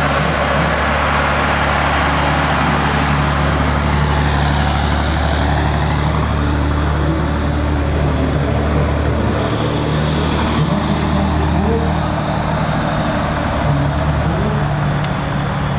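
Heavy diesel truck engines running steadily at low revs, a constant low engine note under a broad noise of idling vehicles.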